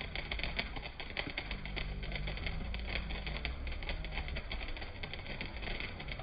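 Ground fountain firework spraying sparks, with a dense, irregular crackle of many rapid pops.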